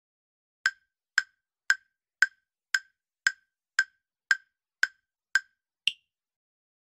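Countdown-timer tick sound effect: ten identical short woody ticks about two a second, then a final tick at a higher pitch that marks the end of the countdown.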